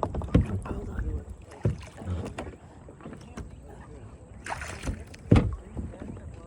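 Water splashing and sloshing around a kayak, with scattered knocks against its hull, during a self-rescue in the water. There is a brief splash about four and a half seconds in, then a heavy knock just after.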